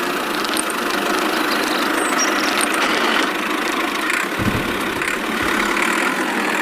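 A small motor running steadily, with a whirring, rattling mechanical noise and little deep rumble.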